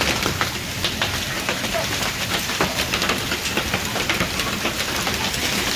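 Heavy rain mixed with hail pelting hard surfaces: a steady dense patter of sharp ticks and splashes.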